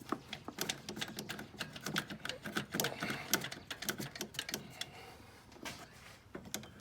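Light irregular clicking and rattling of the engine's oil dipstick being wiggled back and forth and pulled up out of its tube, thinning out near the end.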